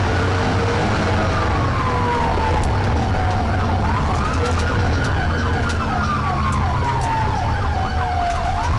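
Police siren wailing, rising and falling slowly about every four seconds, with a faster warble layered over it for a couple of seconds midway. Underneath runs a steady low rumble of engine and road noise.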